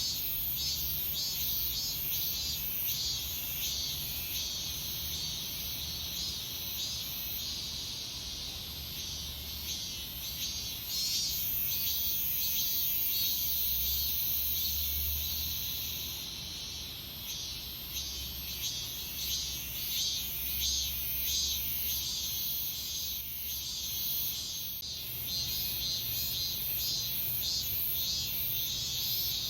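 Cicadas singing in chorus: a dense pulsing buzz, with a higher, continuous whine that swells to its loudest around the middle.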